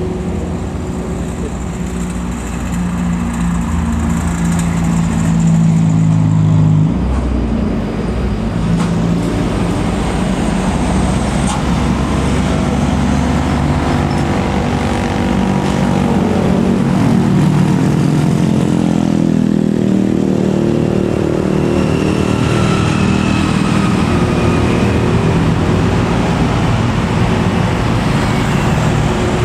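Heavy diesel truck engine running hard on a steep uphill climb, its note changing suddenly about seven seconds in.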